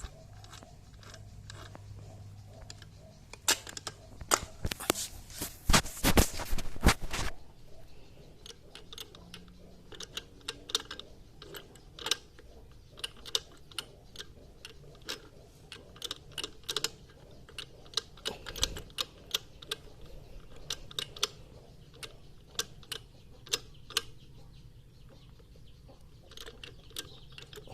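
Sharp metallic clicks and taps of hand tools and parts being handled during a motorcycle engine overhaul, scattered irregularly. About five seconds in comes a dense run of rapid clicks lasting a couple of seconds.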